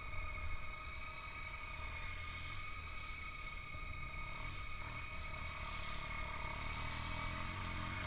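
Faint dirt-bike engine running in the distance over a low rumble, its pitch rising over the last couple of seconds as it revs.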